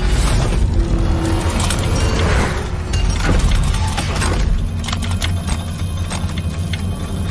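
Cinematic sound effects from an animated action scene: a deep steady rumble with repeated crashes and impacts, with music underneath.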